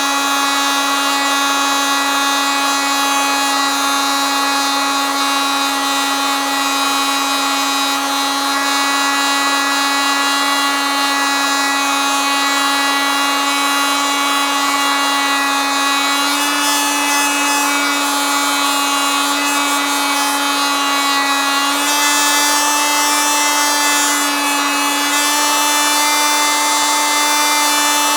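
Oscillating multitool running continuously with a steady buzzing tone. Its pitch steps up slightly about 16 seconds in and again about 22 seconds in.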